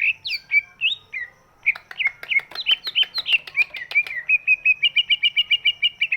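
Green leafbird (cucak ijo) singing: a run of quick, sharp, down-slurred chirps that speeds up into a fast, even trill of about eight notes a second in the second half.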